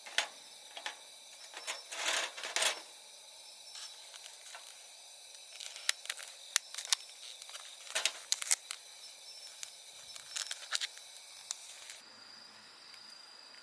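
Scattered clicks and short rustles of things being handled, with insects trilling steadily in the background. The background changes near the end.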